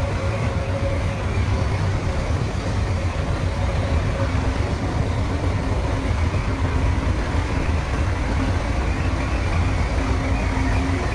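Bulldozer's heavy diesel engine running steadily with a constant low rumble, and faint whining tones from the drivetrain and tracks above it.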